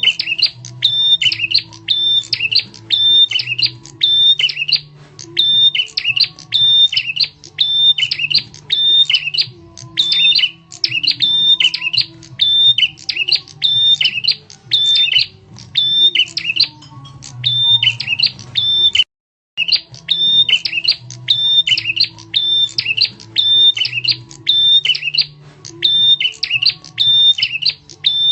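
Prenjak tamu's loud, sharp call repeated rapidly as a lure, about one and a half phrases a second, with a brief break about two-thirds through. A faint low hum runs underneath.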